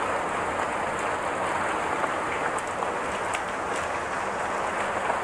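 Heavy rain falling as a steady hiss, with a few faint ticks of drops.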